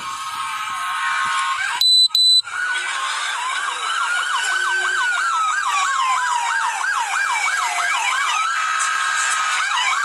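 Emergency vehicle sirens sounding together, one on a slow rising-and-falling wail and another on a fast yelp of about three sweeps a second. Two short, loud, high beeps cut in about two seconds in.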